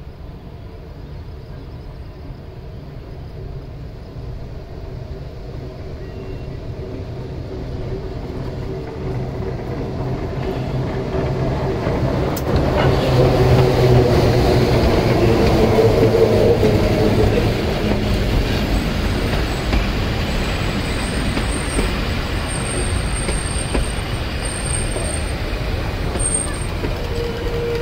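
Historic metre-gauge train approaching and passing close by. Its low hum and rumble grow steadily louder until the front goes past about halfway through, then the old coaches' wheels clatter steadily by on the rails.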